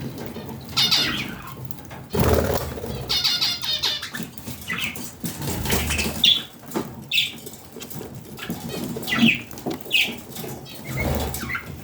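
Pet budgerigars chirping in short, high calls about once a second, with a quick warbling run about three seconds in, and bursts of wing flapping about two seconds in and again near the end.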